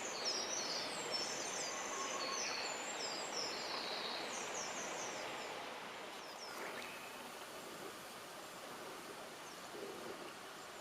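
Small birds chirping and twittering in quick, high notes over a steady outdoor background hiss; the chirping thins out about halfway through.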